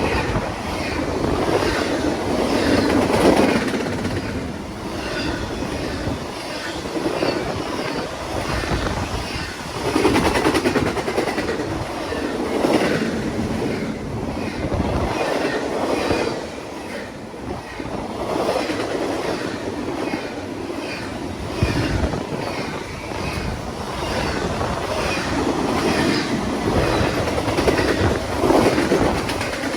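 Railroad cars rolling past at steady speed, wheels clacking rhythmically over the rail joints. The clatter swells and fades every few seconds as each car goes by.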